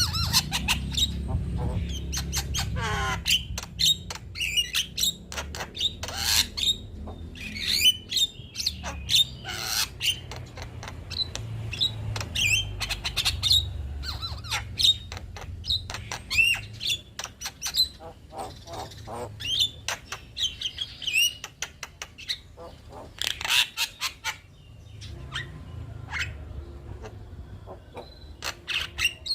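Male Javan myna singing a busy, varied song of rapid clicks, harsh squawks and short whistled notes, over a low background hum.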